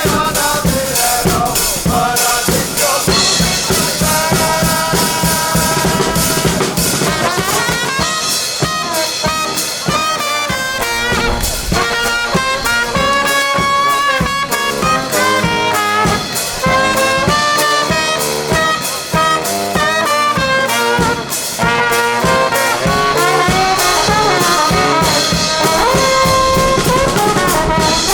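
Live brass band playing a tune, with trumpet and trombone lines over a drum kit beat.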